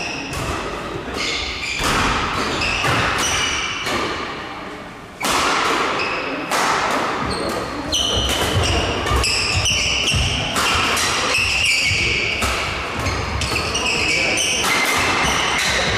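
Badminton doubles rally: repeated sharp racket hits on the shuttlecock and court impacts echoing in a large hall, with players' voices.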